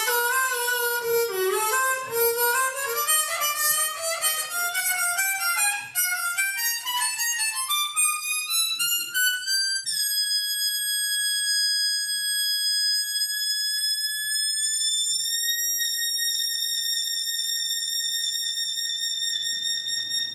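A solo instrument plays a quick, wandering run of notes that climbs steadily in pitch for about ten seconds. It then holds one high, piercing note for the rest, nudging slightly higher about halfway through, and cuts off at the end.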